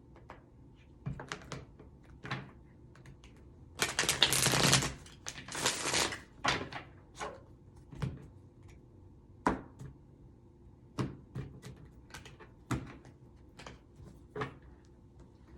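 Tarot and oracle cards being shuffled and handled: scattered snaps and taps of cards, with two louder rushes of riffling cards about four and six seconds in.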